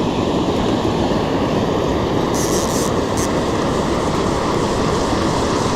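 Waterfall and river water rushing: a loud, steady roar of falling water, with a short high hiss about two and a half seconds in.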